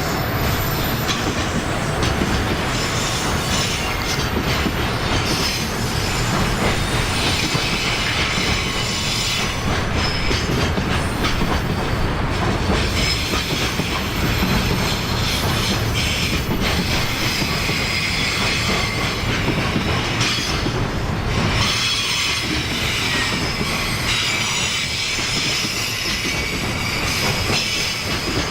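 Freight train of Koki container wagons rolling past, with a continuous rumble and clatter of wheels on the rails.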